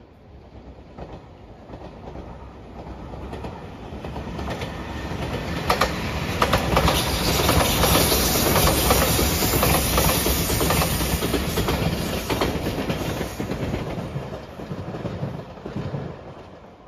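JR Shikoku 8000 series electric limited express train (the white Anpanman train) passing at speed, wheels clacking over the rail joints. It grows louder as it approaches, is loudest in the middle, and fades away near the end.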